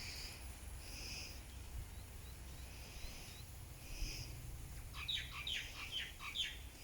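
Birds calling outdoors: short, repeated calls about once a second, then a quick run of descending notes about five seconds in.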